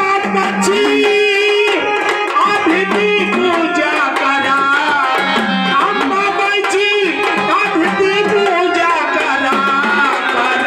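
Marathi folk music with fast dholki drumming under an ornamented, wavering melody line.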